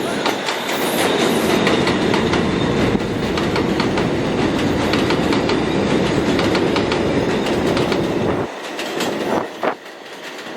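New York City subway train running past, its wheels clicking rhythmically over the rail joints. The noise drops off sharply about eight and a half seconds in.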